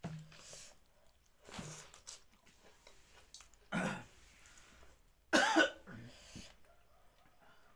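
A woman coughing and clearing her throat, four short bouts, the last and loudest about five seconds in.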